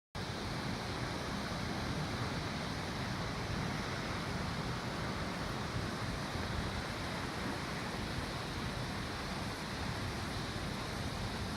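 Steady noise of sea surf breaking on the shore, mixed with wind rumbling on a phone microphone.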